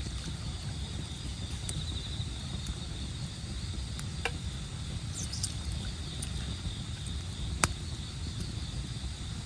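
Autumn insects chirring steadily over a campfire, with a low steady rumble beneath. The fire gives a few sharp crackling pops, the loudest about two-thirds of the way through.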